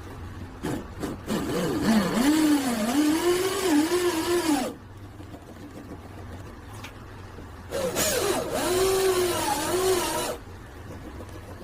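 A handheld power tool working wood, run in two bursts of about three seconds each; its motor whine dips in pitch and recovers as it is loaded, and each burst cuts off abruptly.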